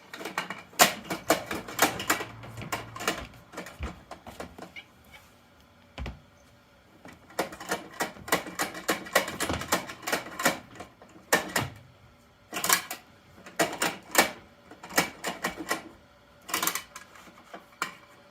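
Hard plastic parts of a toy Bruder Mack garbage truck clicking and rattling, in several bursts of rapid clicks separated by short pauses.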